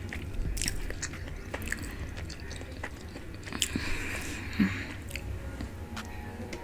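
Close-miked eating from a seafood boil: chewing and mouth sounds with scattered small clicks.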